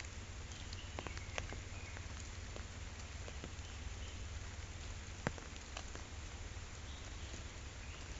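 Rain falling steadily on a pond, an even hiss with many separate drops ticking, one sharp drop a little past five seconds in louder than the rest.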